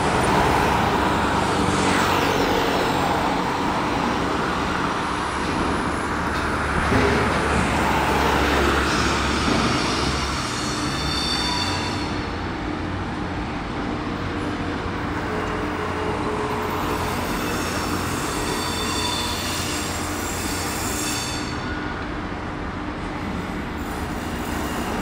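A work train led by a crane-equipped shunting locomotive creeping through yard switches, its engine running with a steady low hum. High-pitched wheel squeal from the curves comes in about eleven seconds in and again a few seconds later.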